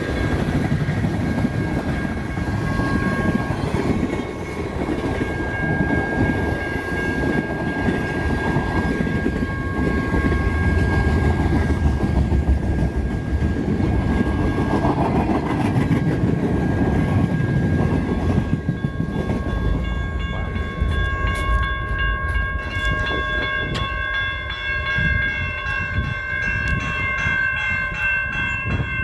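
Freight train cars rumbling and clacking through a grade crossing, with the crossing bell ringing over them. About two-thirds of the way in, the train noise falls away and the steady rhythmic ringing of the crossing bell is left on its own.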